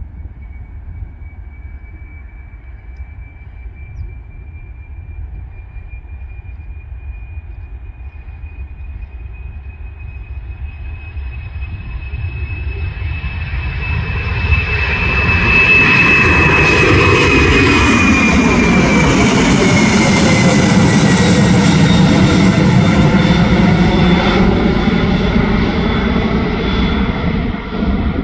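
Boeing freighter jet's engines at take-off power, growing steadily louder as it approaches. The high fan whine drops in pitch as it passes close by, about two-thirds of the way through, and the engines stay loud through the end.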